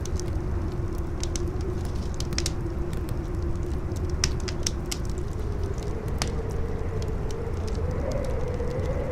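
Campfire crackling with scattered sharp pops over a steady rush of wind. A low, wavering howl in the wind rises slightly in pitch past the middle.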